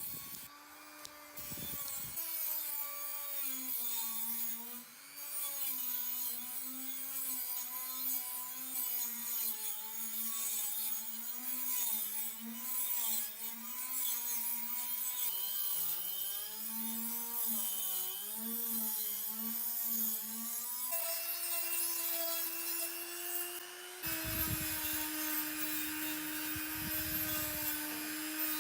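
A small electric power tool's motor running while working against a surface, its hum wavering up and down in pitch as the load changes. About 21 seconds in it jumps to a higher, steady pitch, and a few seconds later low knocking and rumbling joins it.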